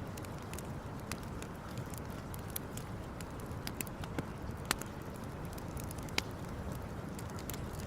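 Wood campfire crackling, with irregular sharp pops and two louder snaps in the second half, over a steady low rumble.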